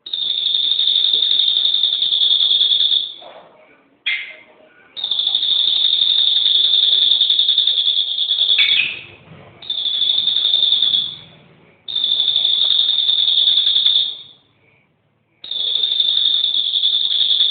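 A songbird singing a rapid, high trill over and over, each trill held for two to four seconds, with short pauses between them.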